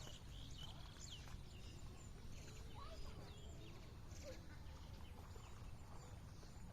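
Faint outdoor ambience: scattered short animal chirps over a steady low rumble.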